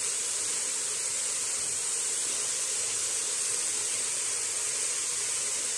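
Steady sizzling hiss of a shrimp mixture cooking in a steel pot on a gas stove.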